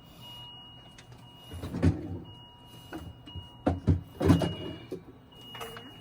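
Several knocks and rustling handling noises, the loudest about four seconds in, over a faint steady high electronic tone that breaks off and resumes.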